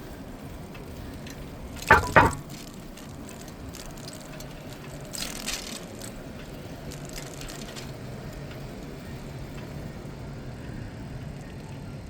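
Steady tyre and street noise of a bicycle ride on a city cycle path, with two sharp knocks in quick succession about two seconds in and a short hiss a few seconds later.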